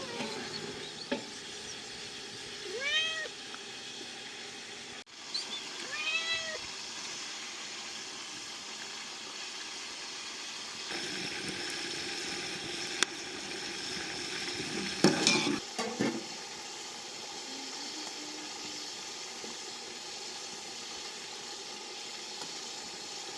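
A cat meows twice, two short rising-and-falling calls a few seconds apart, over a steady sizzle of food frying. There are a few sharp clatters later on.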